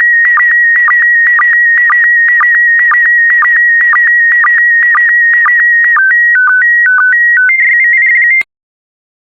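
PD120 slow-scan TV signal sending the last lines of an image: a loud, steady whistling tone with a short lower blip about twice a second, one blip per line pair. About six seconds in it gives way to a short run of tones hopping between two pitches and a warbling high tone, then cuts off suddenly at the end of the transmission.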